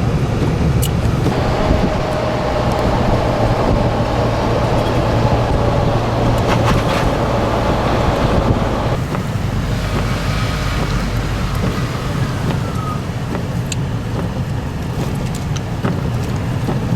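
A car in motion heard from inside the cabin: a steady low engine and road rumble with tyre noise.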